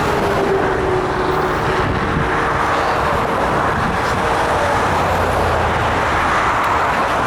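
Intermodal freight train rolling past, a steady, loud rush of wheels on the rails, with a faint thin squeal that fades in the first second or so.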